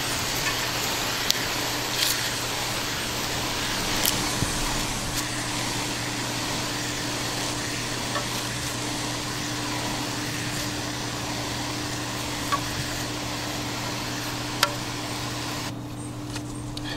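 Cleaner being sprayed in a long, steady hiss onto a dirty HVAC blower wheel to loosen built-up dirt, with a few light clicks. The spray cuts off about a second before the end.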